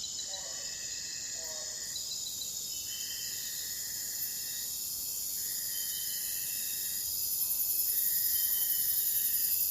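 Insects trilling outdoors. A mid-pitched trill repeats in spells of about two seconds with half-second pauses, over a steady high-pitched insect chorus that grows louder near the end.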